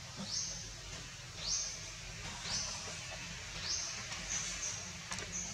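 A bird's high-pitched call repeated about once a second, each note sweeping quickly up and then holding steady, over a low steady background rumble.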